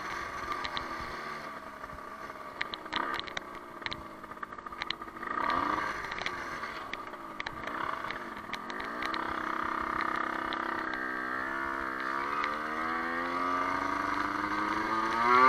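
Small motorcycle engine heard from the rider's position, its pitch falling as it slows, then rising and falling through the gears, and climbing steadily over the last few seconds as it accelerates.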